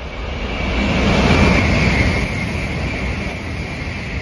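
A train passing by: a rushing noise that swells to its loudest about a second and a half in and then slowly fades away.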